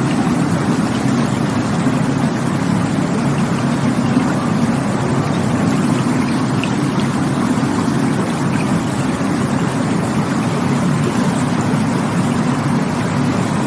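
Rushing water of a stream, a steady unbroken rush that is heaviest in its low rumble.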